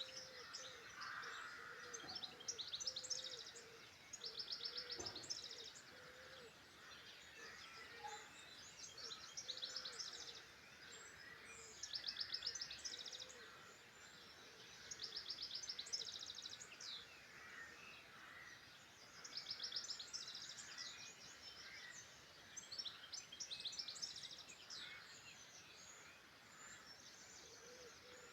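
Wild songbirds singing, one repeating a short, rapid trilled phrase every three to four seconds while other birds call in between.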